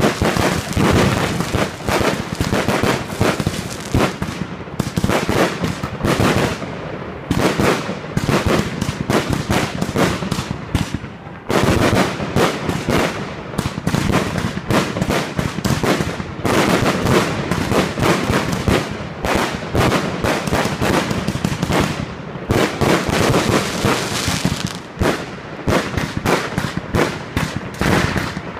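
Fireworks display barrage: a dense, continuous run of rapid crackling bursts and bangs, many a second. There are brief thinner spells about 5, 11 and 22 seconds in, and a sharp loud burst just after the one at 11 seconds.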